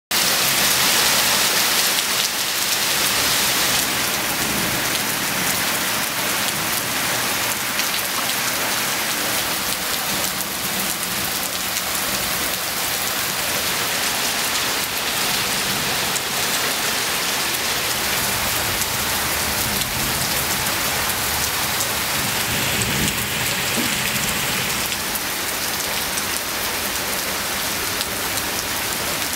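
Torrential rain pouring steadily onto a paved street and lawns: a dense, even hiss of countless drops, a little louder in the first few seconds.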